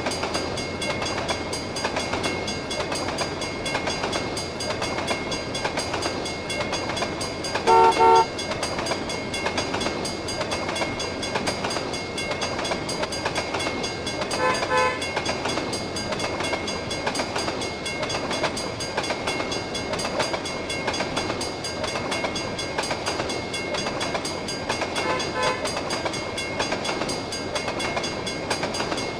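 Canadian Pacific freight train rolling steadily past, its wheels and cars making a continuous rumble. The locomotive's horn gives two short, loud chord blasts about eight seconds in, with fainter horn notes again around the middle and near the end.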